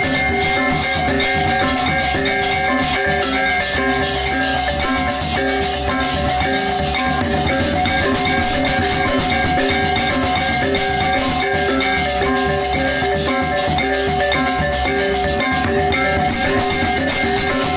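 Balinese baleganjur gamelan playing: the steady ringing pitches of gongs and kettle gongs over fast, dense strokes of clashing cymbals and drums, continuing at an even loudness.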